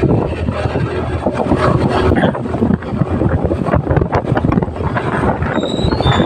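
Wind rushing and buffeting over the microphone on a moving motorcycle, with engine and road noise underneath. A few short high-pitched chirps near the end.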